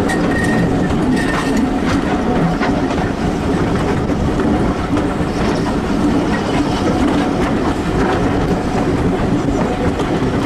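Passenger train hauled by BR Fairburn 2-6-4 tank engine No. 42085, heard from an open carriage window: a steady running rumble with wheels clicking over the rail joints.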